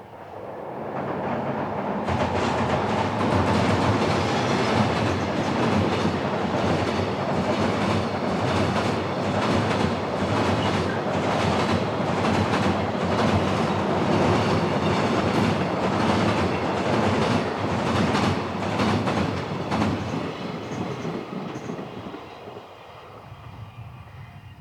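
A freight train passing, its wheels clicking over the rail joints. It builds over the first couple of seconds, runs loud and steady, then fades away over the last few seconds.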